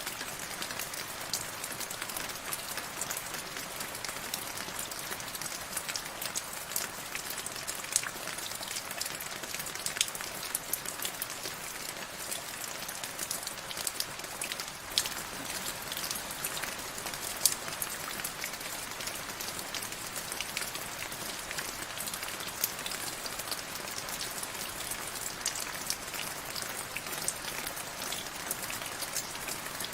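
Steady rain falling, an even hiss dotted with many sharp individual drop ticks, some louder ones standing out.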